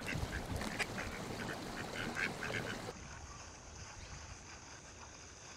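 A mallard hen quacking, a run of short quacks for about three seconds, after which the calls stop and only a faint steady hiss remains.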